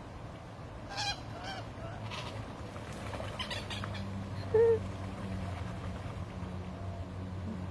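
Waterfowl on a lake giving several short calls, the loudest about halfway through, over a steady low hum.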